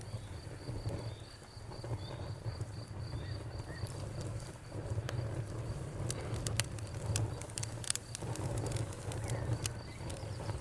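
Crackling wood fire with scattered sharp pops, mostly in the second half, over a low steady rumble. A cricket trills in rapid even pulses throughout, and a bird gives short falling chirps about once a second.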